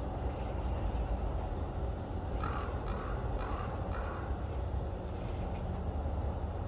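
A large black corvid, raven or crow, giving its odd sonar-like call: four short, evenly spaced notes in quick succession about two and a half seconds in. A steady low rumble underlies it.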